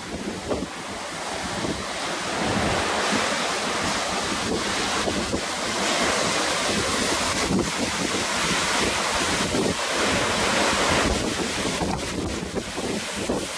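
Surf raised by a typhoon swell breaking and washing onto a beach, swelling and easing in long surges, with wind buffeting the microphone.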